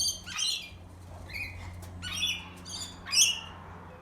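Birds squawking: a string of short, harsh, high calls, the loudest about three seconds in.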